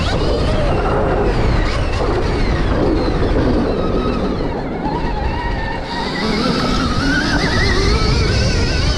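Motocross dirt bike ridden hard around a track, its drive pitch rising and falling with the throttle, over steady wind rumble on the microphone.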